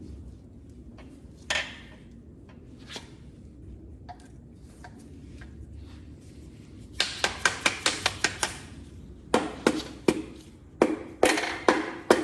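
A piston being tapped down into a 440 big-block cylinder bore: a few faint handling clinks, then from about seven seconds in quick runs of sharp taps, several a second.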